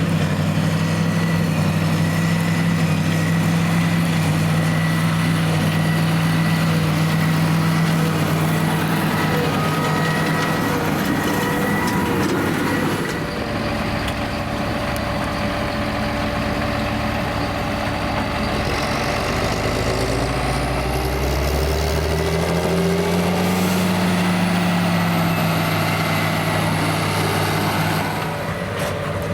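John Deere 8330 tractor's diesel engine running steadily under load while pulling a Krone BigPack square baler. About two-thirds of the way through, the engine note climbs in pitch and then eases back down.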